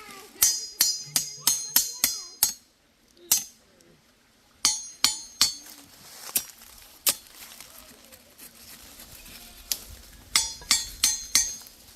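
Sharp metallic clinks and knocks of a cooking pot and utensils being handled. They come in irregular clusters, with a brief lull about three seconds in.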